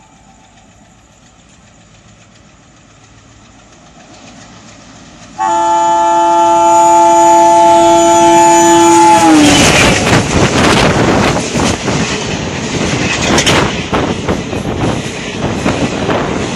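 WAP-4 electric locomotive of an express passenger train: a faint approach, then its horn sounds loudly for about four seconds and drops in pitch as the locomotive passes. The rush and rapid clatter of the coaches running through at speed follow.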